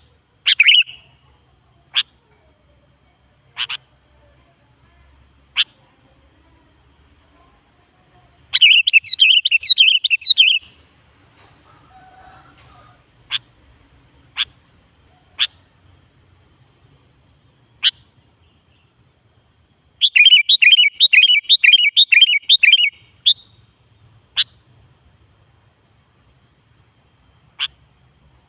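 Sooty-headed bulbul (kutilang) calling: scattered single sharp call notes, and twice a quick run of rapidly repeated chirps lasting two to three seconds.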